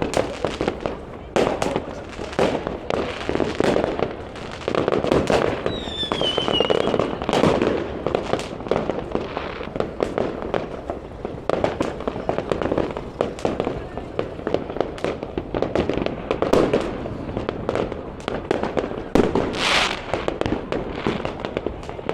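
New Year fireworks and firecrackers going off all around: an irregular run of bangs and crackles, with a falling whistle from a rocket about six seconds in. People's voices sound beneath them.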